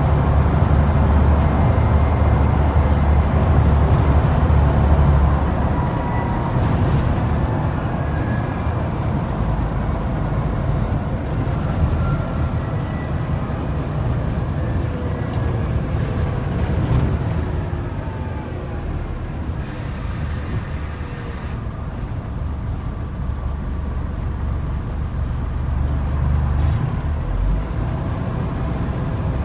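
Scania N94UD double-decker bus's DC9 five-cylinder diesel engine pulling hard, then easing off, with a transmission whine that falls in pitch as the bus slows. A short hiss of air from the air brakes comes about twenty seconds in, and the engine pulls again near the end.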